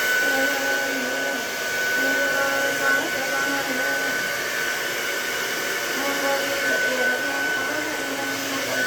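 Hand-held hair dryer running steadily, a continuous airy rush with a steady high whine, as hair is blow-dried straight.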